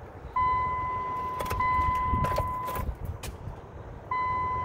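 Steady electronic warning tone from the 2009 Dodge Journey's chime, sounding for about two and a half seconds and starting again near the end, with a few sharp clicks in between. It sounds as the key is tried with the SUV in a no-start, no-crank state.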